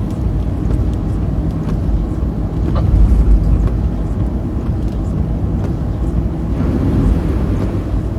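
Road and engine noise inside a moving car: a steady low rumble that swells briefly about three seconds in.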